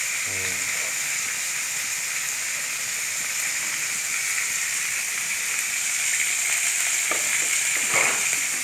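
Flour-coated fermented pork (som ton) deep-frying in a wok of hot oil: a steady sizzle.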